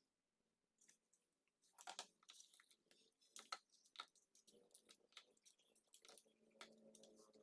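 Faint, scattered clicks and crackles, sparse at first and coming thicker from about two seconds in.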